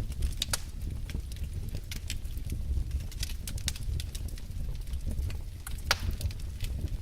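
Wood fire burning in a fireplace: irregular sharp crackles and pops from the logs over a steady low rumble of the flames, with a louder pop near the start and another about six seconds in.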